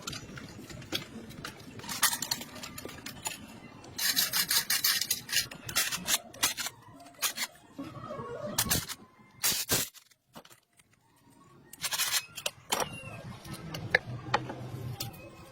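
Intermittent scraping and rubbing with sharp knocks, including a dense run of rapid scraping strokes a few seconds in and a brief near-silent pause about two-thirds of the way through.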